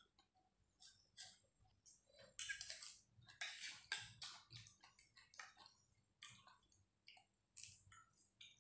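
Faint crunching, clicking and smacking of a person biting and chewing raw vegetable stems, in a quick irregular run that is densest a couple of seconds in.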